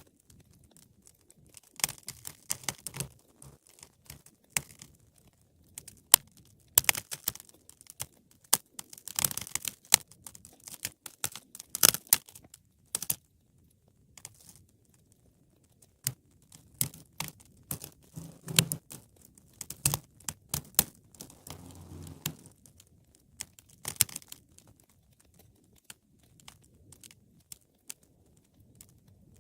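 Wood fire crackling, with irregular sharp pops and snaps that come in dense clusters and then thin out for a few seconds.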